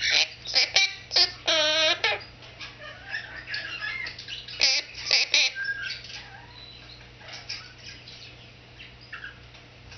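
Quaker parrot chattering and mumbling in bursts. It gives a wavering warble early on and a few sharp chirps about five seconds in, then softer chatter.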